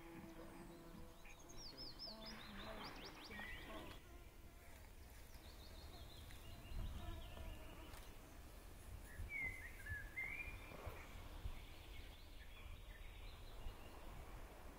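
Faint small-bird chirps from the wild: a quick run of high, falling chirps in the first few seconds and a few more about ten seconds in, over a steady low rumble.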